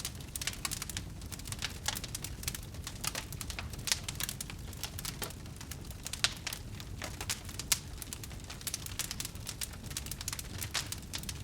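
Wood burning in a campfire: steady irregular crackling and snapping over a low rumble of the flames, with a few louder pops, one about 4 seconds in and one near 8 seconds.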